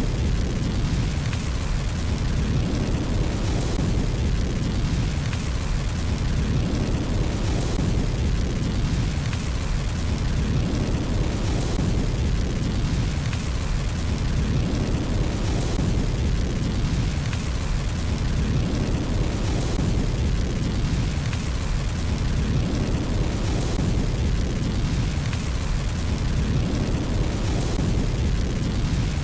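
Fire burning in a fireplace: a steady low roar of flames with short crackles and pops about every two seconds.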